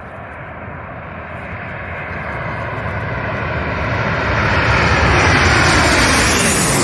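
Jet airliner on final approach passing low overhead. Its engine noise grows steadily louder for about five seconds, then holds at its loudest.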